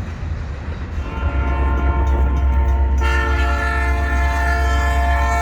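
Diesel freight locomotive's air horn sounding one long, steady chord, starting about a second in and getting louder about halfway through, over the locomotive's low rumble.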